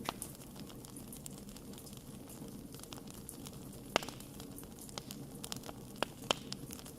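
Wood campfire burning, a steady low rumble and hiss with irregular sharp crackles and pops from the burning wood; the loudest pops come about four seconds in and twice near the end.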